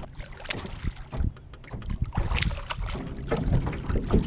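Irregular knocks and clicks of gear being handled in a small jon boat while a hooked catfish is reeled in, with wind rumbling on the microphone.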